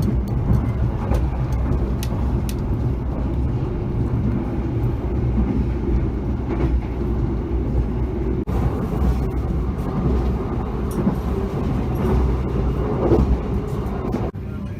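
Passenger train running on the rails: a steady low rumble of wheels and carriage, with scattered light clicks.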